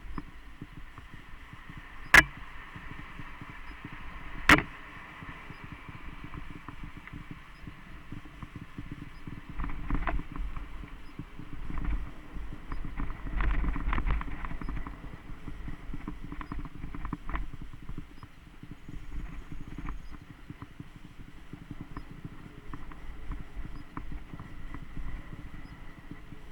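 Mountain bike riding over a dirt trail: tyres on the ground and the bike rattling over bumps, with two sharp clacks a couple of seconds apart early on and heavier rumbling around the middle.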